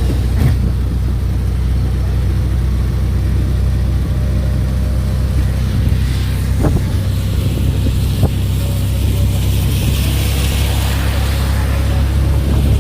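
An engine running steadily, a constant low drone.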